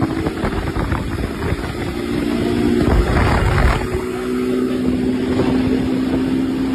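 An engine running at a steady, slightly shifting note, with a short low rumbling burst about three seconds in.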